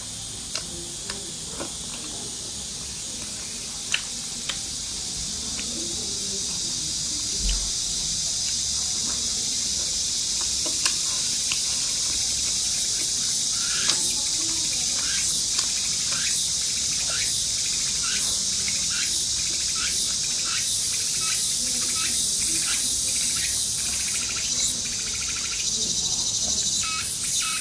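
Food frying in hot oil: a steady high sizzle that slowly grows louder, with scattered sharp pops and, from about halfway, short regular strokes roughly once a second.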